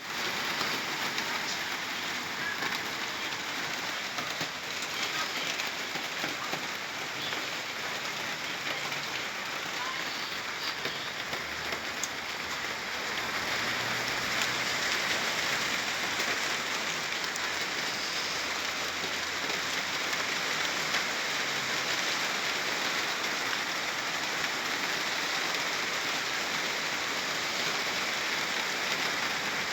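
Steady rainfall pattering on surfaces, a little heavier in the second half.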